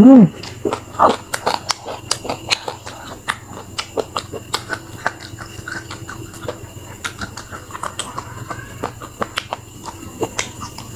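Close-miked chewing of fried snack food: irregular wet mouth clicks and lip smacks, several a second. A short voiced sound from the eater, falling in pitch, comes right at the start and is the loudest moment.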